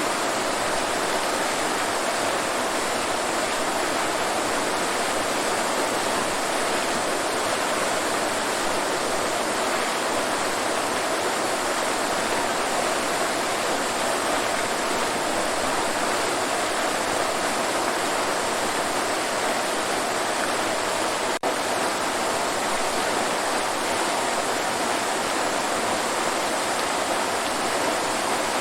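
Waterfall: a steady, even rush of falling water, with one momentary dip in level about three quarters of the way through.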